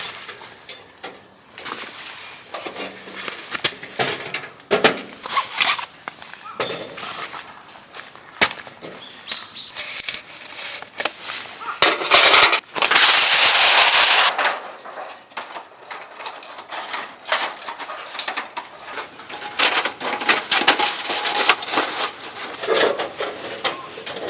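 Irregular sharp knocks and clacks, like hard objects being handled, with a loud rushing noise lasting about a second and a half just past the middle.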